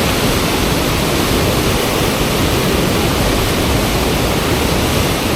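Fast river water rushing steadily, the current of a river-surfing wave.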